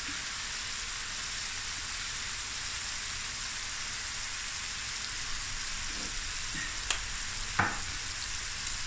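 Chicken and vegetables sizzling steadily as they stir-fry on high heat in a stainless steel pan. Two small knocks come about seven seconds in.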